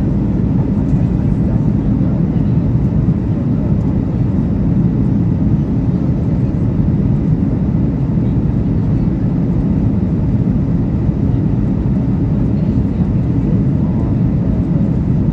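Steady cabin noise inside a Boeing 737-800 in flight: an even, low rumble of its CFM56 jet engines and the air rushing past the fuselage.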